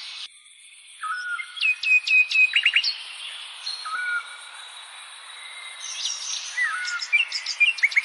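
Songbirds chirping and singing in short, sharply falling whistled notes and quick trills, over a steady background hiss. The sound drops out for a moment just after the start, then the chirping resumes.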